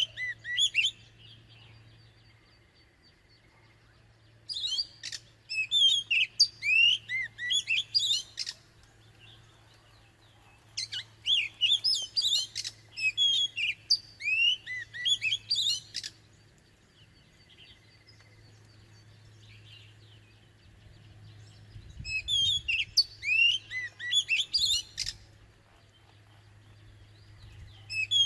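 Oriental magpie-robin singing in bursts of several seconds of rapid, varied whistled notes, with pauses of a few seconds between bursts. A faint steady low hum runs underneath.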